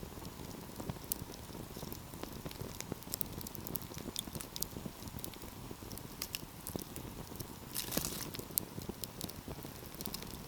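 Wood fire burning, with a steady low rumble of flames under frequent sharp crackles and pops. About eight seconds in there is a brief, denser burst of crackling.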